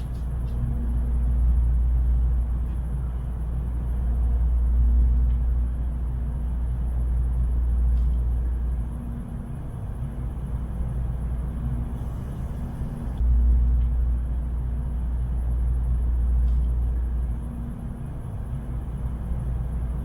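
Tokaido Shinkansen train running, heard inside the passenger car: a steady low rumble of wheels on track that swells and eases over a few seconds at a time, with a faint hum coming and going.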